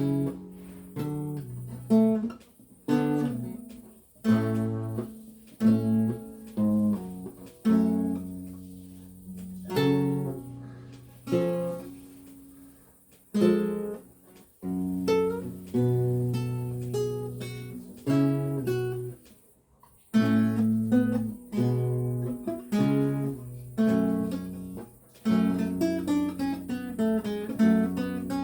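Solo lute playing 16th-century lute music: plucked chords with low bass notes and single-note runs, each phrase ringing out and dying away before the next.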